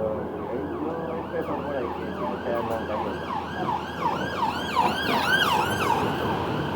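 Emergency vehicle siren in a fast yelp, quick rising-and-falling sweeps a few times a second, growing louder about five seconds in, over the low running rumble of the bus.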